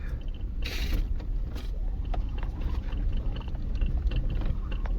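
Car driving over a rough dirt road, heard from inside the cabin: a steady low rumble with scattered knocks and rattles, and a short burst of noise just under a second in.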